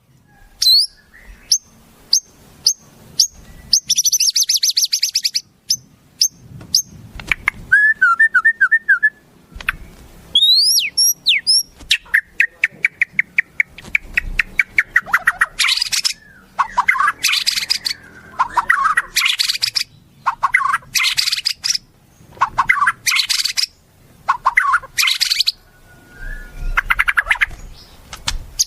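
Wild songbird calls played in succession as a training recording for a white-rumped shama: quick phrases of sharp chips, rising whistled glides and fast trills, each lasting a second or two, with brief pauses between them.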